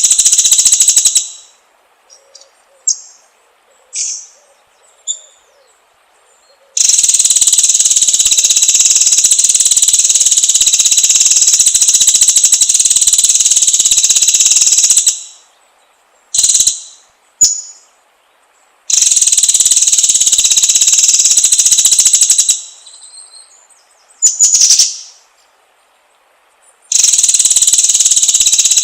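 High, rapid buzzing trills from a bird-lure recording, in long loud bursts of several seconds each. Short separate chirps fall in the gaps between the bursts.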